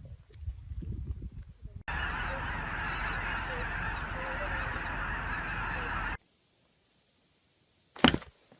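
A large flock of geese honking, a dense din of many overlapping calls for about four seconds that cuts off suddenly. Before it, low rustling and munching from grazing animals; near the end, a sharp thump.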